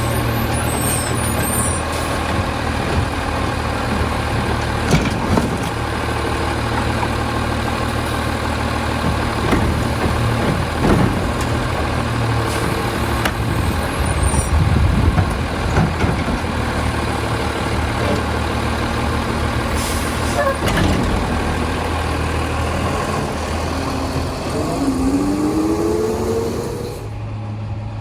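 An Autocar Labrie side-load garbage truck's diesel engine running steadily, with several sharp knocks and bangs along the way and a rising whine near the end.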